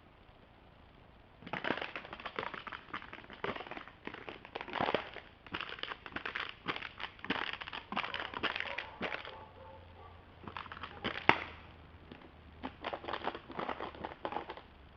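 Irregular crackling and crunching: quick runs of many small cracks, with a short pause partway through and one sharper crack just after it.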